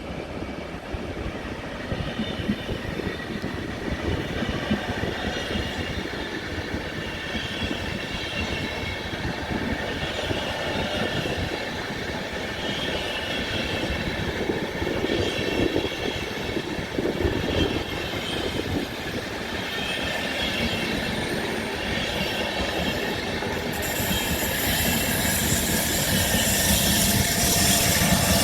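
Train running along the tracks, its wheels clattering steadily over the rails, with a high hiss joining about three-quarters of the way through as it grows louder toward the end.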